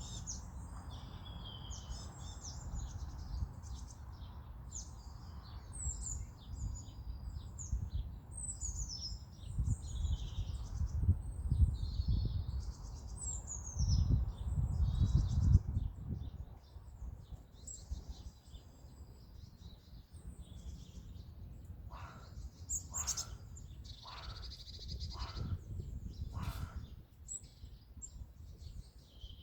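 Several wild birds singing at once: quick high chirps, whistles and trills overlapping throughout. A low rumble swells from about a third to about halfway through, and in the last third a handful of short, sharper sounds stand out above the song.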